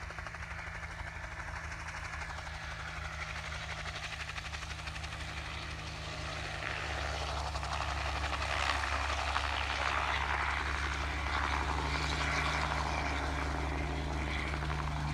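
Crop-duster helicopter's engine and rotor running, a steady low drone that grows louder about halfway through as the motor revs up.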